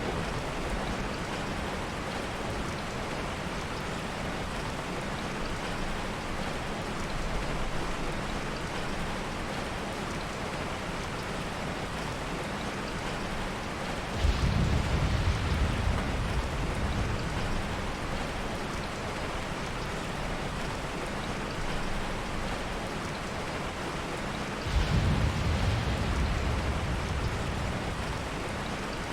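Heavy rain falling steadily, with two low rolls of soft thunder: one about halfway through and one near the end.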